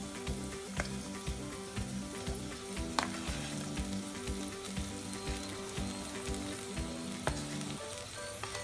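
Oil sizzling in an aluminium pot of frying potatoes as soaked poha (flattened rice) is spooned in from a plate, with a few sharp clinks of the spoon against the plate and pot. Soft background music runs underneath and stops near the end.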